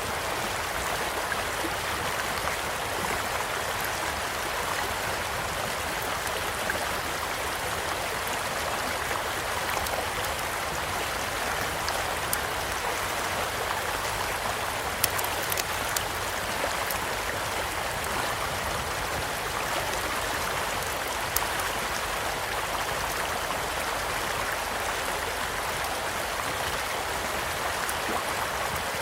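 Stream flowing with a steady rush of water, and a campfire giving occasional sharp crackling pops, a few louder ones about halfway through.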